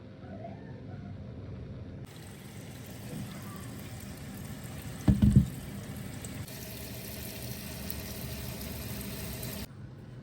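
Water running or being poured, with a single loud knock about five seconds in.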